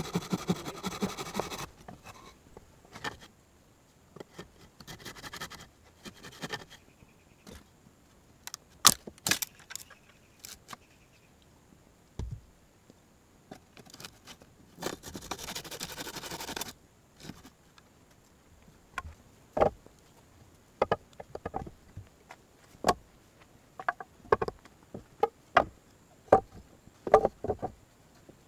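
Hand work with wood and tools: irregular sharp knocks, clicks and scrapes, a couple of seconds of rasping midway, and quicker strikes near the end, after a short droning tone at the very start.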